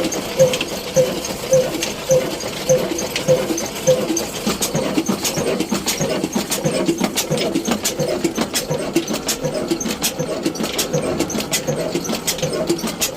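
Diesel engine running with a slow, regular beat of about two strokes a second, which quickens after about four seconds into a faster, busier rhythm with sharp clicking.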